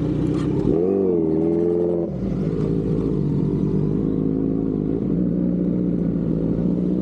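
Kawasaki inline-four sport motorcycle engine idling. The throttle is blipped once about a second in and held briefly, then the engine settles back to a steady idle.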